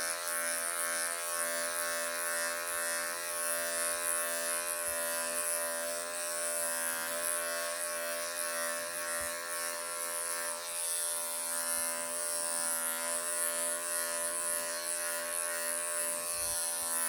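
Wahl electric pet clippers running with a steady buzz as they shave a Persian cat's thick, matted coat.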